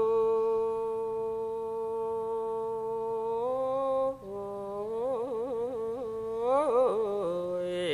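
A man's voice holding one long chanted note, stepping up slightly partway and then breaking into quick wavering turns of pitch before settling: the drawn-out melismatic call of a Lao su khwan soul-calling chant.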